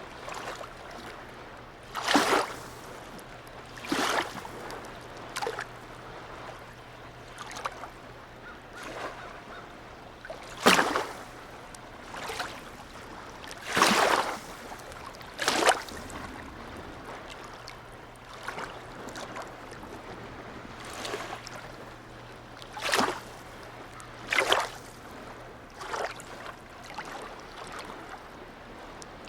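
Harbour water lapping and splashing in short, irregular slaps every one to three seconds, over a steady low hum that stops near the end.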